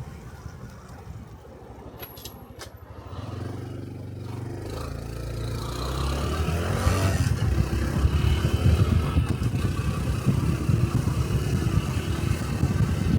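Honda Cub 125 cc single-cylinder motorcycle engine and exhaust, running quietly at low revs at first, with two sharp clicks about two seconds in. It then picks up and pulls away, getting louder and staying under load from about six seconds in.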